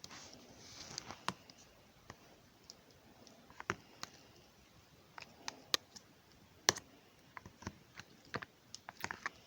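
Milky-white slime being pressed and stretched by hand, giving irregular sharp clicks and small pops. There is a soft squishy hiss in the first second.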